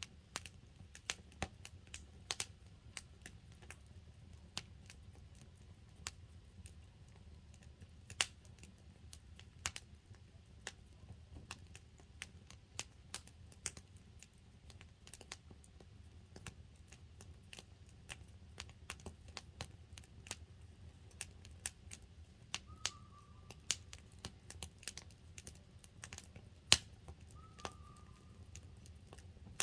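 Firewood burning in a campfire and crackling, with irregular sharp pops and snaps over a low, steady background rumble.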